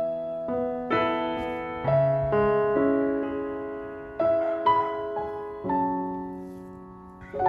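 Background music: slow, gentle solo piano, soft chords and notes struck about once a second and left to ring and fade.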